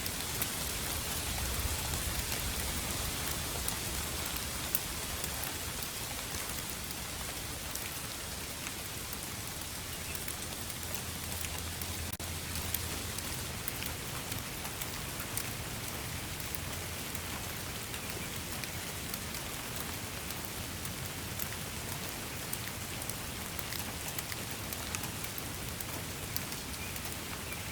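Steady rain falling, an even hiss strongest in the highs, with many fine drop ticks and a low rumble underneath.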